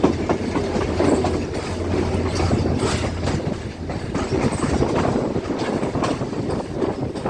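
Passenger train running along the track, its wheels clacking irregularly over rail joints above a steady rumble.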